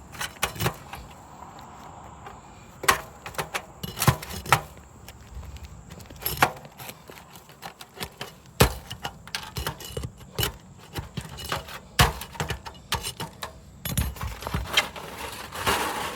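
Roof shingles and a roof vent being worked loose by hand and tool: a run of irregular sharp clicks and knocks, with a scraping stretch near the end.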